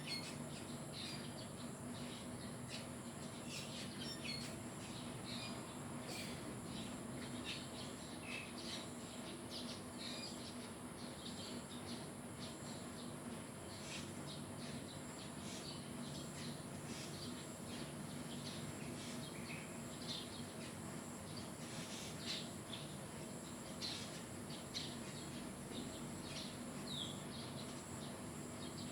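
Birds chirping: many short, high calls and trills at irregular intervals over a steady background hum.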